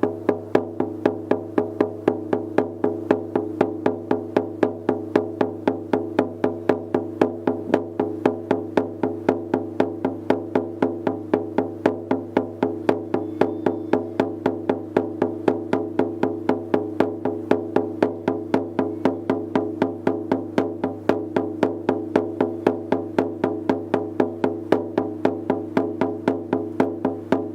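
Shaman's frame drum struck with a beater in a steady, even beat of about three strikes a second, each stroke ringing on into the next.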